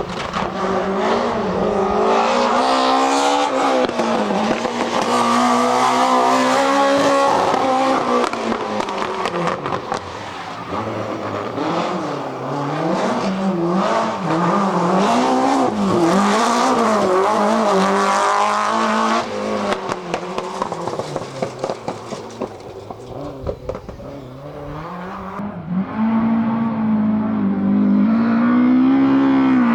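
BMW M3 E30 Group A rally car's four-cylinder engine being driven hard, its pitch climbing and dropping again and again through gear changes and lifts. It falls quieter and choppier about two-thirds of the way through, then runs loud and steady again near the end.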